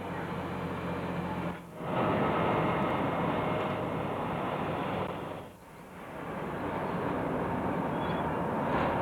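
Jet airliner engine noise: a steady, dense rush with two brief dips in level, about a second and a half in and again past the middle.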